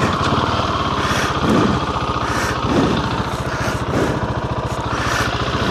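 Husqvarna 701's single-cylinder four-stroke engine running steadily as the bike is ridden, rising and falling slightly in pitch a few times.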